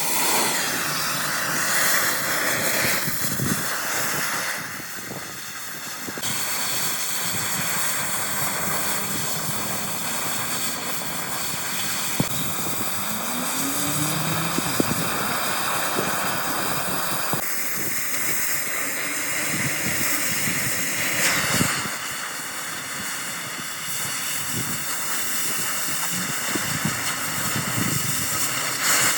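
Steady hissing workshop machinery noise, changing character a few times.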